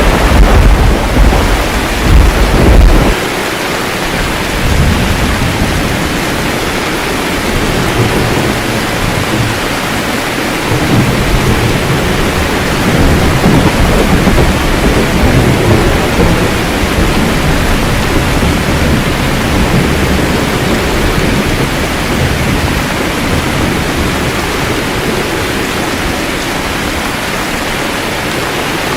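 Steady rain with thunder. A loud thunderclap opens, lasting about three seconds, and rolling rumbles swell again around the middle before dying away under the constant hiss of the rain.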